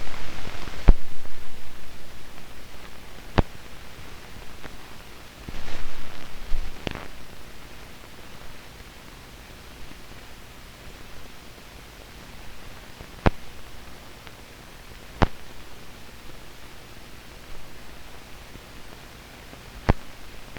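Hiss and crackle of an old newsreel film soundtrack with no programme sound on it, broken by about five sharp pops spaced several seconds apart.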